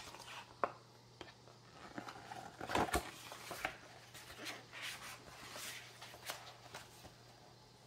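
Paper rustling and soft clicks as a picture book's page is handled and turned, loudest about three seconds in, over a faint steady electrical hum.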